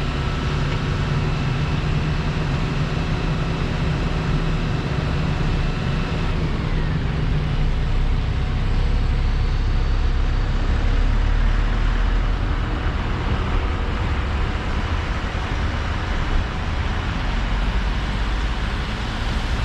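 Heavy diesel construction machinery running steadily. Its engine note drops about six seconds in, and after that a broad, steady rushing noise takes over.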